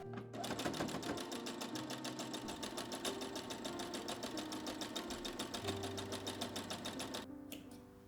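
Domestic sewing machine stitching in a rapid, even run, stopping about a second before the end.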